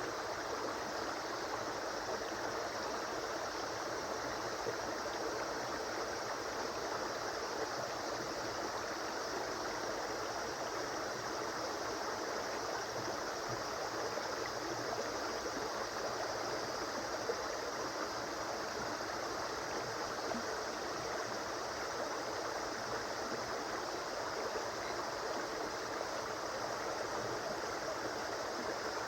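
Flowing river water, rushing and gurgling steadily.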